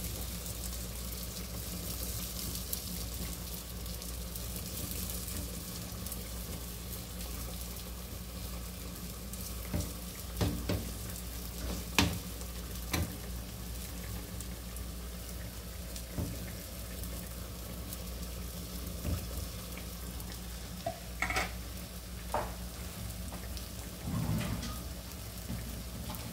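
Omelette batter of grated cabbage and carrot sizzling steadily in a frying pan, with a spoon scraping and tapping against the pan a few times, mostly about ten to thirteen seconds in and again near the end.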